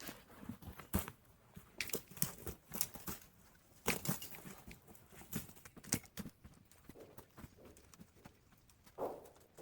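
Irregular crunching steps and sharp knocks, roughly one or two a second, with a duller thud near the end.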